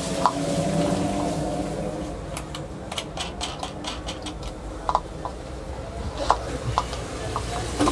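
Small metallic clicks and taps of a nut being fitted and tightened on a ceiling fan. There is a quick run of ticks a couple of seconds in, then single clicks spaced out toward the end.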